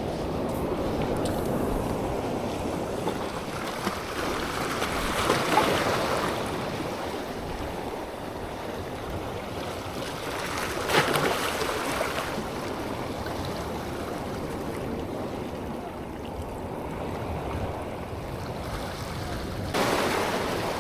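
Waves washing in along the shore, a steady rushing wash that swells up three times.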